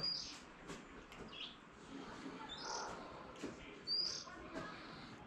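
A small bird calling outdoors: short high-pitched chirps, each a quick upward flick, repeated every second or so.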